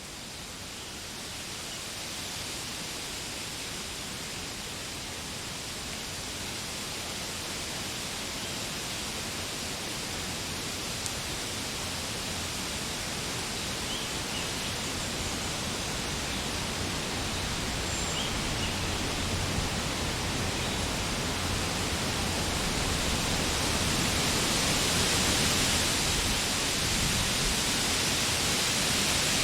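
Spring daytime forest ambience: a steady, even rushing noise that slowly grows louder, with a few faint, short high chirps in the middle.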